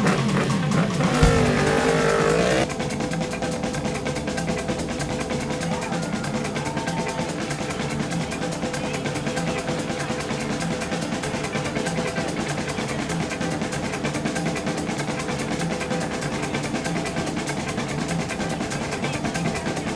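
Racing motorcycle engines at high revs, with a gliding engine note in the first couple of seconds, under background music with a steady beat.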